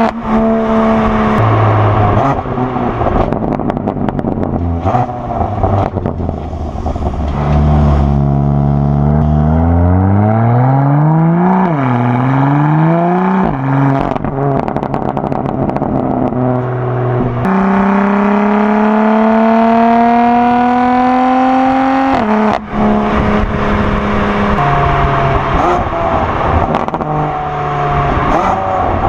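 BMW M4 Competition's S55 twin-turbo straight-six, with a non-resonated equal-length midpipe, running hard through the gears under load. There are a few short climbs in revs, then one long steady climb about two-thirds of the way through that ends in an abrupt drop, with a sharp crack at the shift. The revs then step up and down until they rise again near the end.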